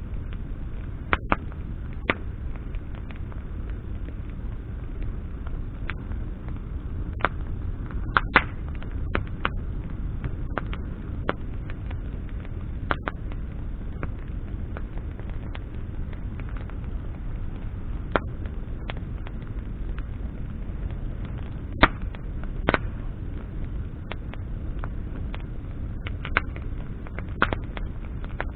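Campfire of burning branches crackling: sharp, irregular pops and snaps, a few much louder than the rest, over a steady low rush.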